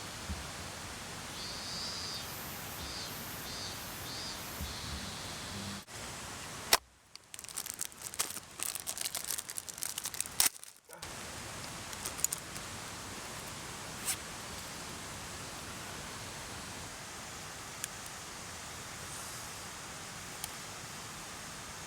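Steady rush of a mountain stream. About seven seconds in it drops out for some four seconds, and a run of small clicks and knocks takes its place.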